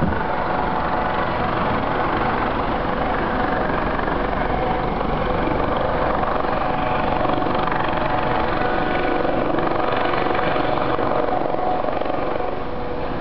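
Police helicopter hovering, its rotor and engine making a steady, loud drone with a faint constant whine.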